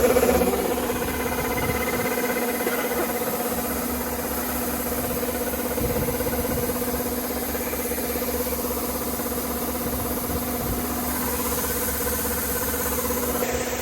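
Rice harvester's engine running steadily. It is louder at first, eases down about half a second in, and picks up again at the very end.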